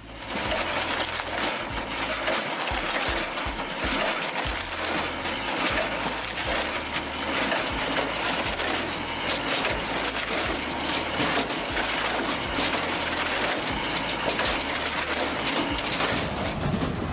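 A firewood processor at work: machinery running under a dense, irregular clatter of knocks as logs are cut and split pieces of wood tumble against each other and the metal.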